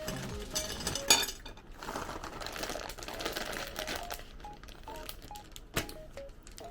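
Light clicks and clinks of kitchenware, with a stretch of rustling or crinkling in the middle, over soft melodic background music.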